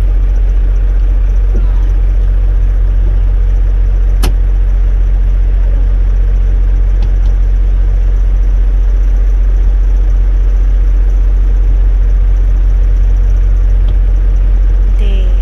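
Steady low rumble of a semi-truck driving, heard from inside the cab, with one sharp click about four seconds in.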